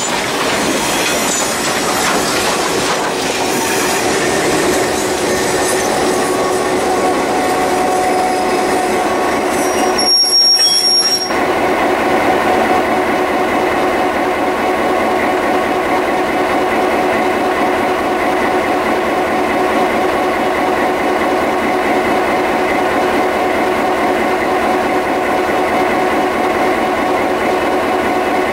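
Passenger coaches rolling slowly past on the rails, wheels squealing and clacking over the joints. About ten seconds in the sound changes abruptly to a steady hum with several even tones.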